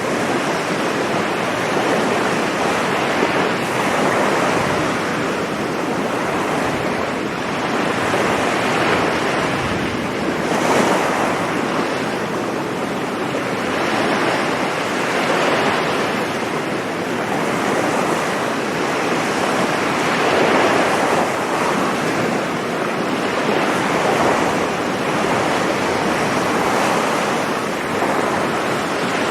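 Sea surf breaking on a sandy beach: a continuous wash of waves that surges and eases every few seconds.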